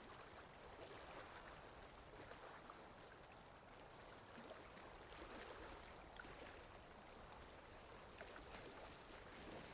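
Faint, steady rain falling, with individual drops ticking now and then.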